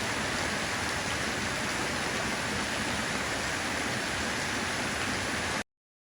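Steady, even rain falling, a dense hiss with no separate drops standing out. It cuts off suddenly about five and a half seconds in.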